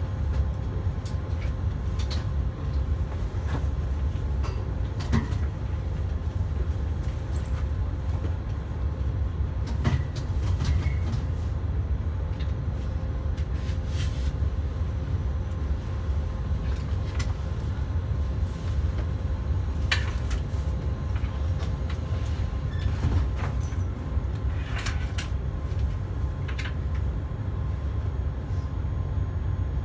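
Passenger train running along the track, heard inside the carriage: a steady low rumble with a faint steady hum over it and scattered light clicks and knocks.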